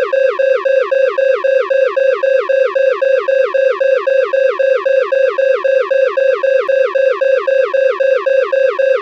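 Loud electronic alarm: a steady high beeping tone overlaid by a falling sweep that repeats rapidly and evenly, several times a second, without a break.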